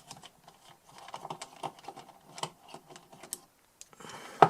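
A screwdriver working a small screw out of a metal DI box casing: a run of small, irregular clicks and scrapes, with a brief rasp and a louder knock near the end.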